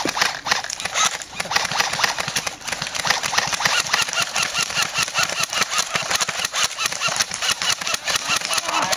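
Airsoft gunfire: electric airsoft guns (AEGs) firing rapid bursts, heard as a fast, dense run of clicks and snaps over a motor-like buzz.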